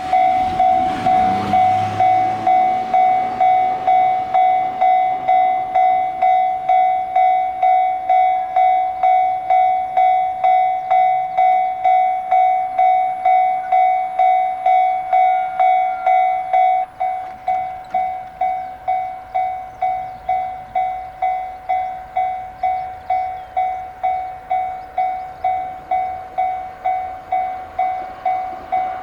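Railway level-crossing warning bell ringing, an even electronic ding about twice a second. About two-thirds of the way through, the rhythm changes and the dings become more separated.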